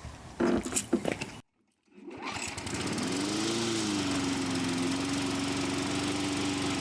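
A few sharp knocks, a brief break, then a lawn mower's small engine starting up: its pitch climbs, wavers and settles into a steady run.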